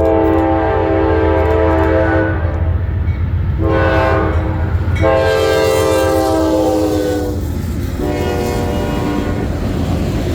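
Norfolk Southern diesel locomotive's multi-note air horn sounding four blasts, the first and third long and the second and fourth shorter. A low, steady train rumble runs underneath.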